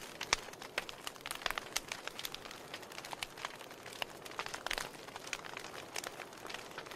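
Wood fire crackling: irregular sharp pops and snaps from burning logs over a soft steady hiss.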